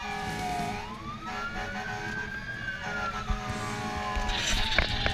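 Fire rescue truck's siren in a slow wail: the pitch falls, climbs back up about a second in, then slides slowly down again over the next few seconds, over the truck's engine running. A hiss and several sharp knocks come in near the end.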